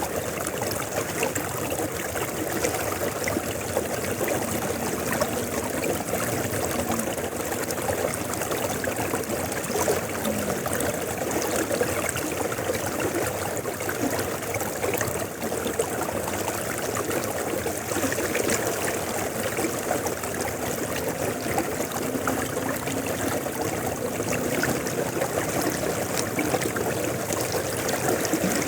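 River water flowing steadily, a continuous rushing and babbling without pause.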